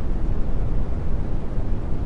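Brown noise: a steady, deep rushing hiss, strongest in the lows, with no change in level.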